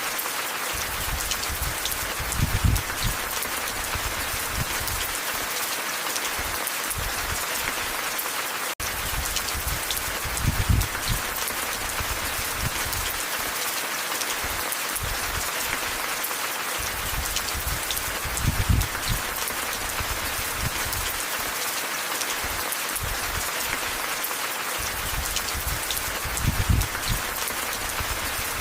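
Steady rain falling, an even hiss, with short low rumbles recurring about every eight seconds and a momentary dropout about nine seconds in.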